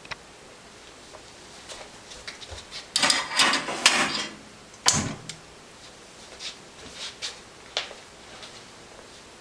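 Clicks, knocks and a short scraping rattle of hard parts being handled while a bio-ethanol fireplace is lit. The loudest part is a rattling scrape about three seconds in, followed by a sharp knock near five seconds, then a few lighter clicks.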